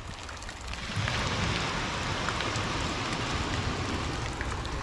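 Steady rain falling, an even hiss that grows louder about a second in and then holds, over a low rumble.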